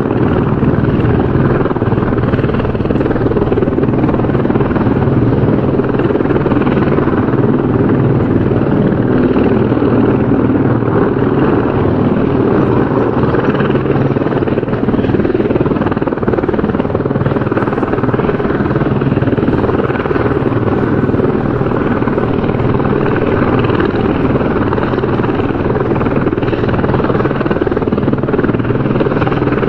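Helicopter rotor and engine running, a loud, steady, dense noise with no change in level.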